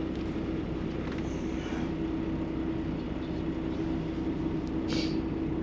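Semi truck's diesel engine running steadily, a constant hum heard from inside the cab. A short hiss about five seconds in.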